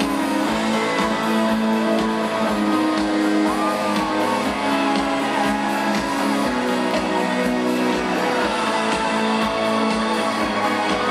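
Live rock band playing an instrumental passage: a wavering electric guitar line over held chords and a steady drum beat.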